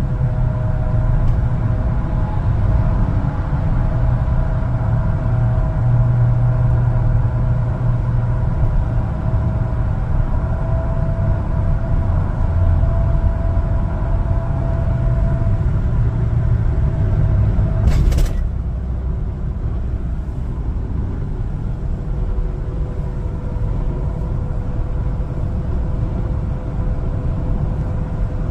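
1-ton LPG cargo truck driving on the road: a steady low engine and road rumble with a faint whine that rises slowly in pitch. A sharp click comes about two-thirds of the way through, and the rumble eases slightly after it.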